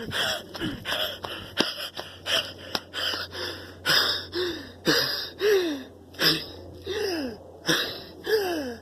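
A man panting hard while running, rapid gasping breaths about twice a second, many of them voiced and falling in pitch.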